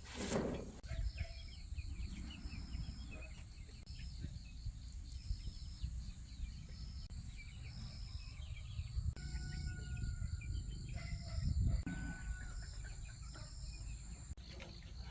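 Outdoor ambience of insects: a steady high buzz that stops near the end, and short chirps repeating about once a second. Under them runs a low rumble, with a couple of faint bird calls about halfway through.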